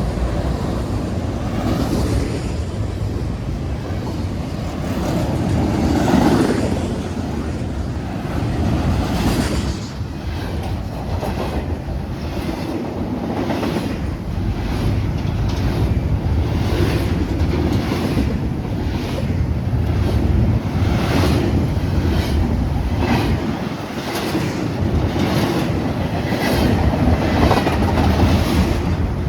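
Train passing on the tracks, a steady loud rumble with the wheels clacking over the rail joints in a regular rhythm of about one clack a second.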